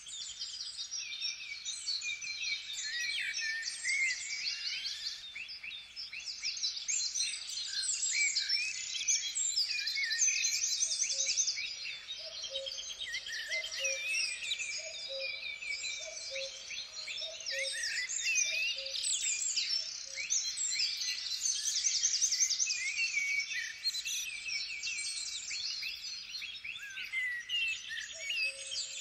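Many songbirds chirping and trilling at once in a dense, continuous forest chorus. A lower, two-note repeating call joins in from about a third of the way through, fades out a little past halfway and comes back near the end.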